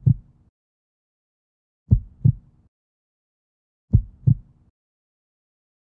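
Heartbeat sound effect: a low double thump, lub-dub, repeating slowly about every two seconds.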